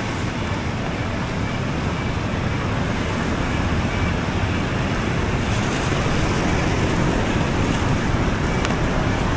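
Steady rushing beachfront ambience: surf and road traffic blending into an even roar.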